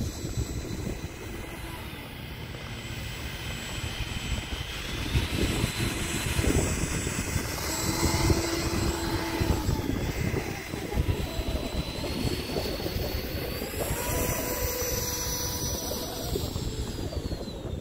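RC model jet's ducted fan units whining while taxiing. The pitch rises with throttle about two seconds in, steps up again around two-thirds of the way through, then falls near the end, over a steady low rumble of wind and rolling.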